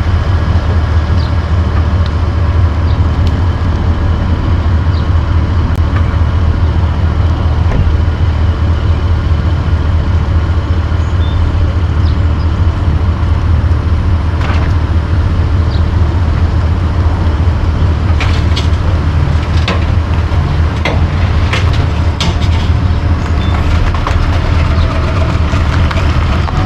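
A vehicle engine idling steadily with a deep hum, with scattered clicks and knocks in the second half.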